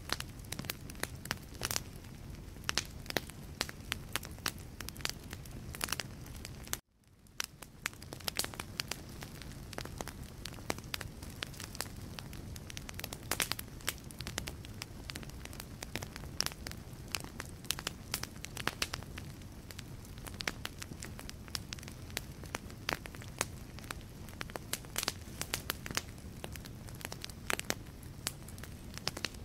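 Wood fire burning in a fireplace: logs crackling and popping in quick irregular clicks over a steady low rumble of flames. About seven seconds in the sound cuts out briefly and fades back in.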